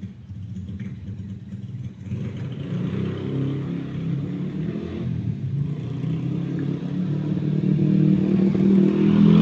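A motor vehicle engine running, joining about two seconds in and growing steadily louder.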